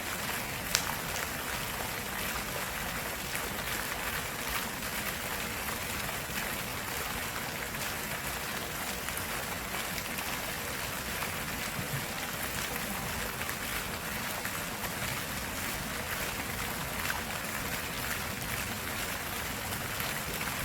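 Stream water flowing steadily over rocks, an even rushing. One sharp click a little under a second in stands out above it.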